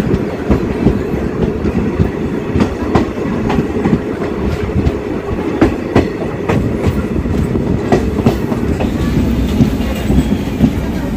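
DEMU (diesel-electric multiple unit) passenger train running after departing a station: a steady rumble with wheels clicking over rail joints, several sharp clicks a second.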